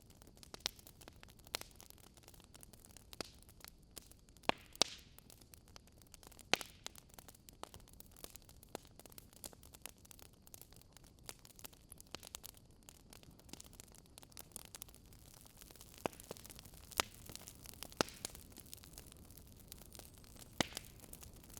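Fire burning in a fireplace, crackling with irregular sharp pops and snaps over a soft steady hiss.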